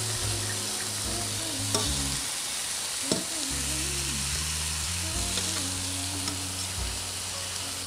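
Food sizzling in a hot pan on the stove while a spoon stirs a thick tomato and pepper sauce in a stainless steel pot, with a couple of light knocks of the spoon against the pot.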